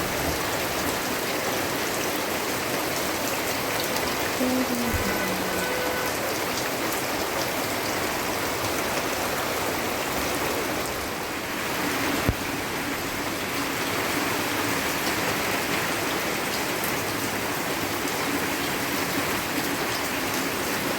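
Steady rain falling and pattering on surfaces, an even dense hiss, with a single sharp tap about twelve seconds in.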